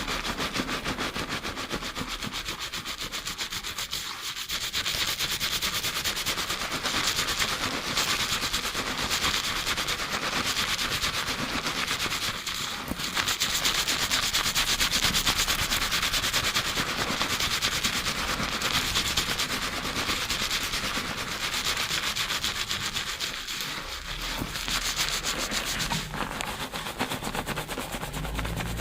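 Fingertips scrubbing a lathered scalp fast, close to binaural microphones: a continuous dense crackling rub of rapid strokes in shampoo foam, easing off briefly a few times.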